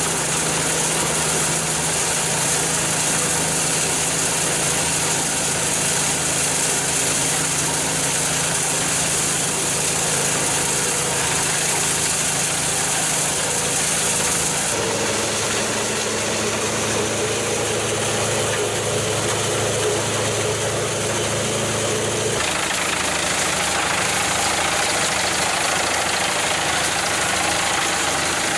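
Machinery engine running steadily. Its tone changes suddenly about halfway through and again near three-quarters of the way.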